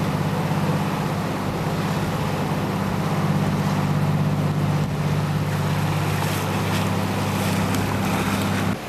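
Boat engine running steadily underway, a low drone under wind and water noise, cutting off suddenly near the end.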